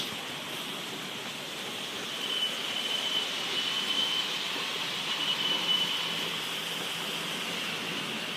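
Heavy rain pouring down in a steady hiss during a thunderstorm. A thin high-pitched tone rises over it on and off from about two seconds in until about six seconds in.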